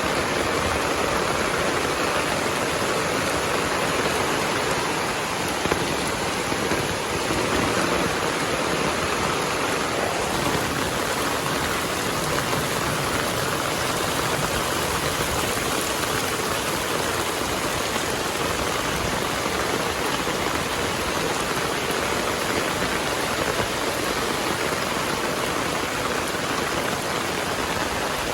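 Heavy rain falling steadily: a dense, even hiss of rain on surfaces with no thunder claps.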